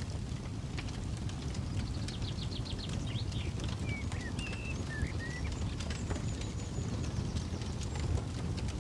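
Campfire crackling with scattered sharp pops over a low steady rumble, while small birds chirp in short notes that slide up and down.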